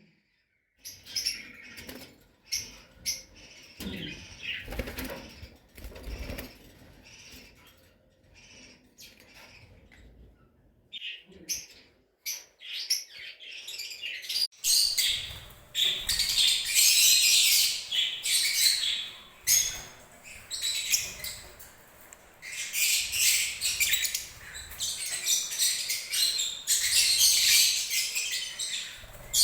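Pet parrots calling: scattered short high chirps and clicks with pauses at first, then a continuous shrill chatter of many calls from about halfway.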